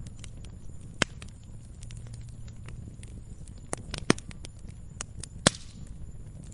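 Wood campfire crackling: a steady scatter of small snaps over a low rumble, with a few sharper pops, the loudest about a second in, twice around four seconds and at about five and a half seconds.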